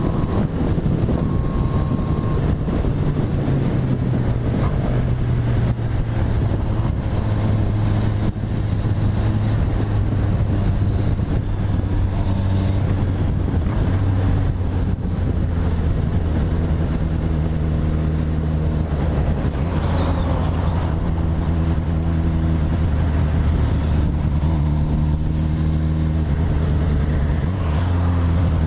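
Motorcycle engine running under way at steady revs, its pitch stepping up and down several times as the throttle and gear change.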